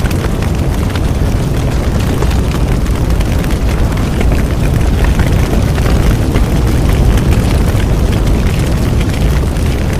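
Bonfire burning: a loud, steady low roar of flames with dense small crackles and pops throughout.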